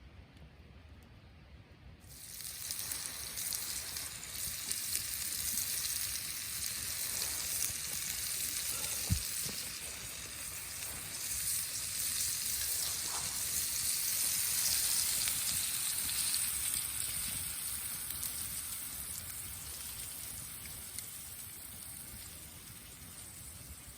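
Food sizzling in a hot pan, starting suddenly about two seconds in, swelling and then slowly dying down.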